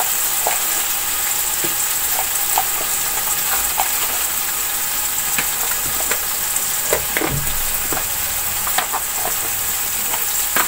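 Chopped tomatoes and fried onions sizzling in hot oil in a large aluminium pot: a steady frying hiss with scattered small pops and crackles, as the tomato-and-onion base for the pulao fries.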